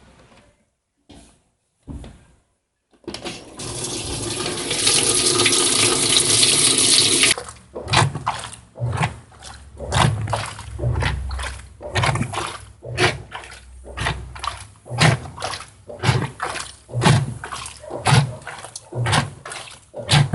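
Top-loading Mabe washing machine: water rushes into the tub for about four seconds and cuts off suddenly, then the agitator sloshes the water back and forth in a steady rhythm of about one stroke a second, driven by the newly replaced transmission.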